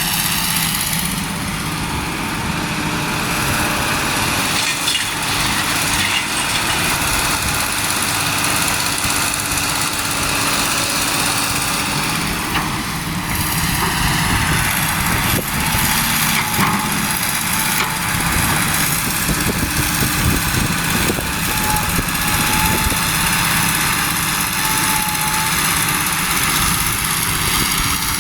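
Truck engines running steadily.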